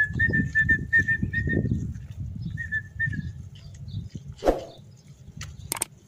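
A bird chirping: a run of short high chirps on one pitch, about three a second, stopping about three seconds in, over low wind rumble on the microphone. A sharp knock comes about four and a half seconds in.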